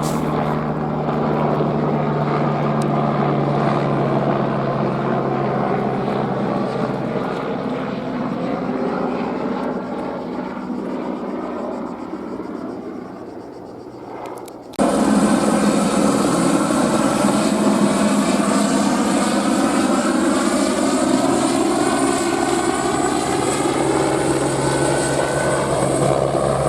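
Airbus AS350 helicopter's turbine and rotor running, fading steadily into the distance. About fifteen seconds in, the sound cuts abruptly to the helicopter much closer and louder, its tone sweeping slowly as it moves.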